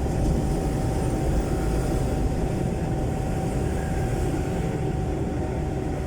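Jeepney's Isuzu 4BC1 four-cylinder diesel engine running steadily through a very loud exhaust, a dense low rumble with a thin steady whine above it.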